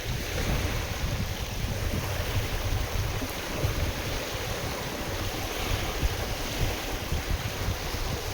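Wind-driven waves washing and splashing on a lake shore, with gusting wind rumbling on the microphone.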